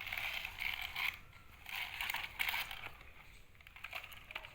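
Gritty crunching and scraping of dry soil as a toy excavator's plastic bucket digs into it, in several short irregular bursts that grow softer in the second half.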